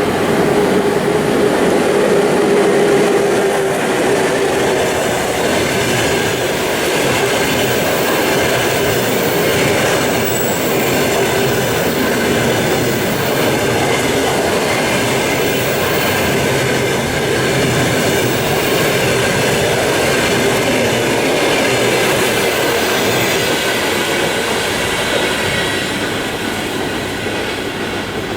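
ChS7 DC electric locomotive and its passenger coaches passing at close range: a steady whine over the train noise for the first few seconds, then the continuous noise of the coaches' wheels running on the rails.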